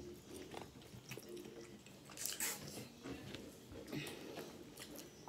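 Close-miked chewing of cheeseburger and french fries, with scattered wet mouth clicks; the loudest cluster comes a little over two seconds in.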